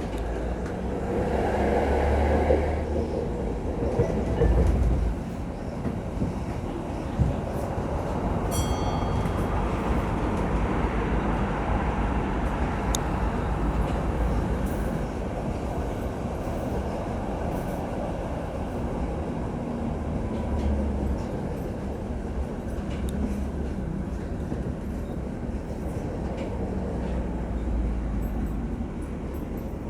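A vehicle in motion: a steady rumble with swells early on and a brief high squeal about nine seconds in.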